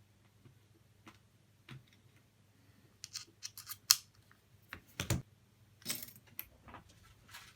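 Scattered small clicks and taps of tools and small parts being handled during phone repair work, with one sharp click about four seconds in and a duller knock just after.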